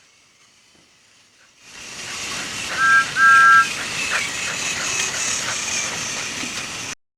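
Steam locomotive letting off steam: a steady hiss that swells up after about a second and a half, with two short blasts on a two-note whistle in the middle. The sound cuts off suddenly near the end.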